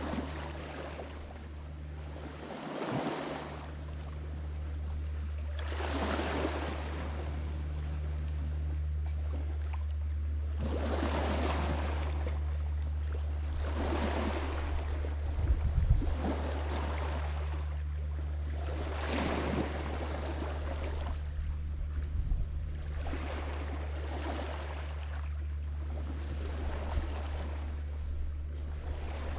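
Lake Michigan waves breaking on the shore, a new wash of surf every few seconds, over a steady low rumble.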